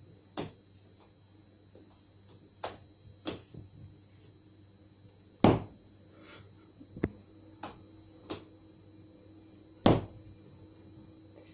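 Pet rabbit thumping its hind foot: about eight sharp, separate knocks at irregular spacing, the loudest about halfway through and near the end. Foot-thumping is a rabbit's alarm signal, given when it is frightened or warning of danger.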